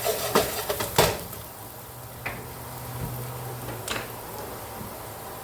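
Kitchen clatter: a quick run of sharp clinks and knocks of utensils against a pot in the first second or so, then a few lighter taps over a low steady hum.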